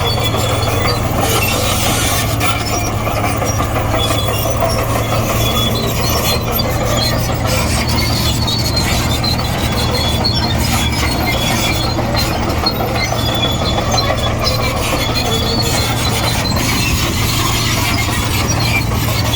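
Komatsu D58E crawler bulldozer's diesel engine running steadily under load while the dozer works soil, with scattered high squeaks from its steel tracks.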